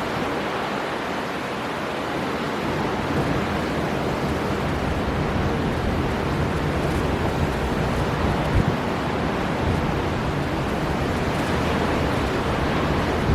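Storm wind blowing hard over breaking sea surf: a dense, steady rush of noise.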